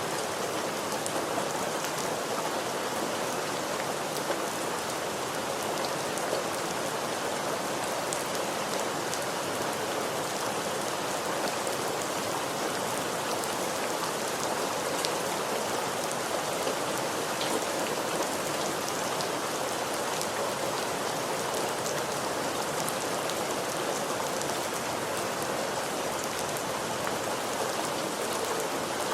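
Steady rain falling and pattering on a surface, with scattered individual drop ticks over an even hiss.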